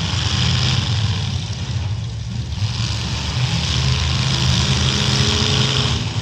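Demolition derby trucks' engines running and revving together, a loud low rumble with a hiss above it.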